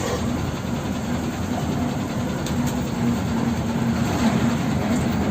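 A heavy vehicle running with a steady low rumble and a faint hum.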